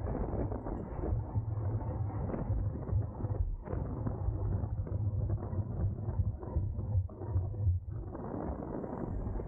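Wind buffeting the microphone of a camera riding on a racing bicycle at speed, over a steady low road rumble. It eases off briefly a couple of times.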